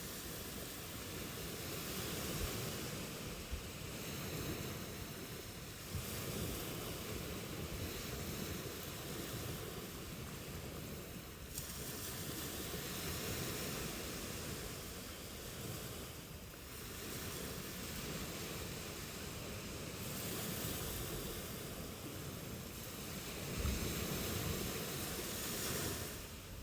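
Ocean surf: waves breaking and washing up a shore, the rush swelling and easing every few seconds.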